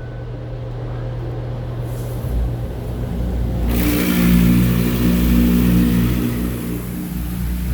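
A van's engine running and pulling forward, its low rumble swelling a couple of seconds in. A loud steady hiss comes in sharply a little past halfway and carries on to the end.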